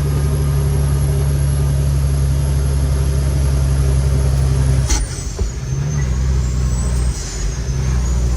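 Kenworth T800 truck's Cummins X15 diesel engine pulling hard under heavy load uphill at high revs. About five seconds in there is a sharp click and the engine note drops away as the driver makes a gear change, which has to be done quickly on the climb.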